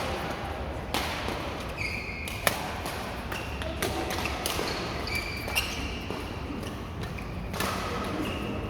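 Badminton being played in an indoor hall: a few sharp racket-on-shuttlecock hits one to three seconds apart, with short high squeaks in between.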